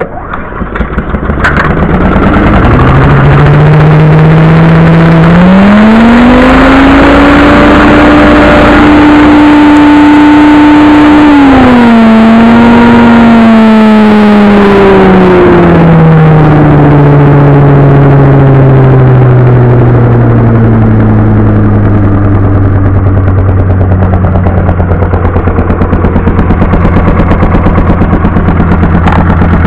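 The small four-stroke engine of a Billy Goat KV lawn vacuum is pull-started cold on choke and catches within about two seconds. It speeds up, runs fast for several seconds, then slows gradually and settles into a steady, lower-speed run.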